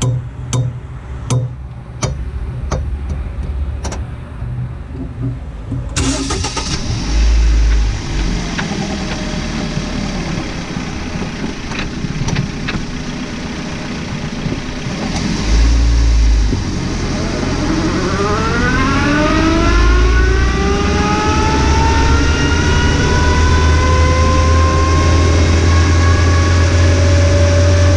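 2002 Ford Focus Mk1 estate: a few seconds of evenly spaced clicks, about one and a half a second, over a low running engine, then the car gets under way with a couple of heavy thumps and accelerates, the engine pitch rising and levelling off in the second half.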